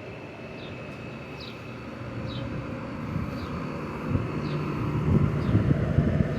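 Vintage Eastern Electric 20-inch box fan (a rebranded Lakewood 223 with an old-style McMillan motor) running at full speed: a steady, deep rush of air that gets louder and more gusty about four seconds in.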